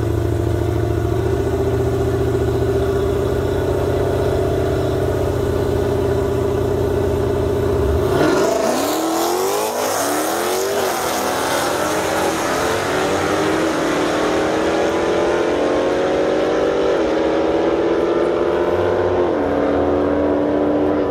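Two Dodge Challenger V8 engines running at the start line of a drag race, then launching hard about eight seconds in. The engines rev and pull away down the strip, climbing in pitch with short dips at each gear shift.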